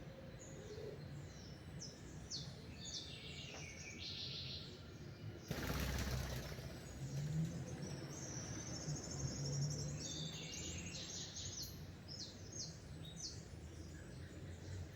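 Several small songbirds chirping and trilling in quick short phrases, with a brief rush of noise about five and a half seconds in, the loudest moment.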